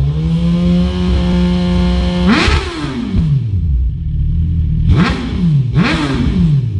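Suzuki GSX-R1000 K7 inline-four revving through an aftermarket Arrow exhaust. It is held at a steady raised rev for about two seconds, then given a sharp blip that falls back, then two more quick throttle blips near the end.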